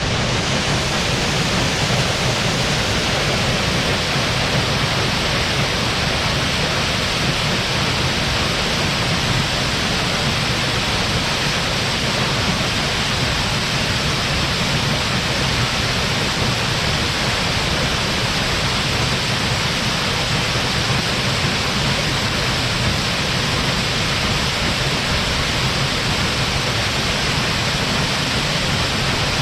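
A high-volume waterfall: water falling and crashing into its pool in a steady, loud, unbroken rush.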